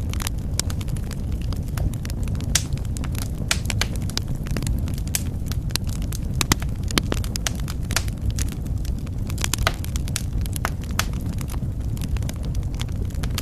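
Fire in a fireplace crackling, with sharp, irregular pops, several in quick succession at times, over a steady low rumble.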